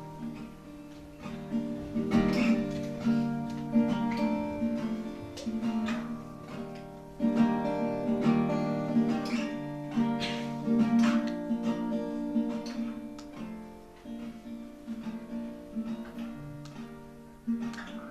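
Acoustic guitar playing the instrumental intro of a folk song, chords struck about once a second and left to ring.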